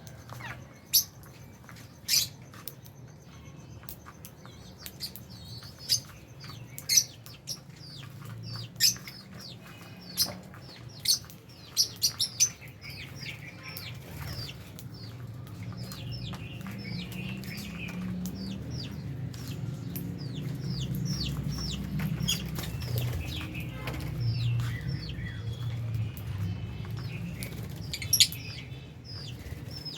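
A flock of lovebirds chirping continuously in short, shrill calls, with several loud sharp calls in the first half and one near the end, over a low rumble that swells through the middle.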